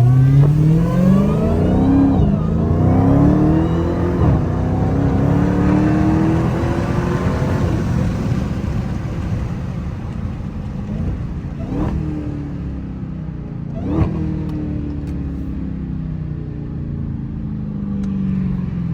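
Dodge Hellcat's supercharged 6.2-litre HEMI V8 accelerating hard from a stop, the revs climbing and dropping back at two quick upshifts in the first four seconds, then pulling on for a few more seconds before settling into a steady cruise. Two sharp clicks come in the middle, and the engine note falls near the end as the car slows.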